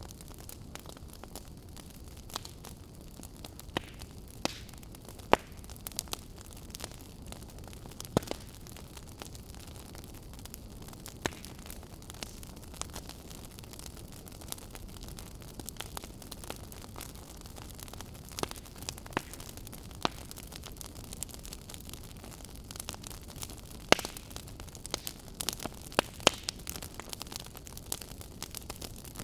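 Firewood burning: a steady low hiss with frequent irregular crackles and pops, a few much sharper pops standing out, one about five seconds in and one some five seconds before the end.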